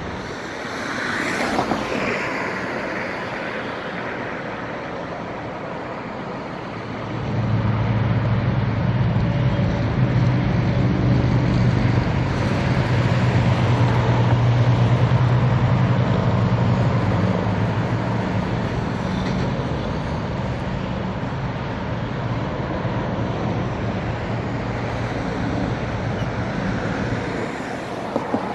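Road traffic passing steadily, with a car sweeping by about a second in. From about seven seconds a heavy vehicle's low engine drone rises over the traffic, holds for some ten seconds, then fades.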